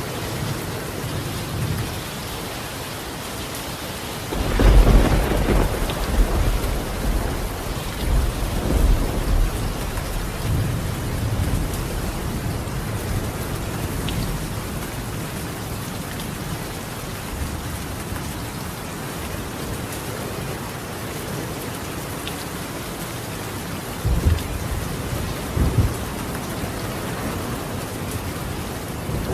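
Steady rain falling on a tiled roof. A loud roll of thunder starts about four seconds in and rumbles on for several seconds, and a shorter rumble of thunder comes near the end.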